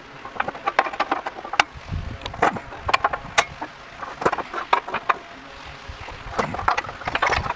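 Irregular metallic clinks and knocks of axle bearing parts and tools being handled and fitted onto a rear axle shaft.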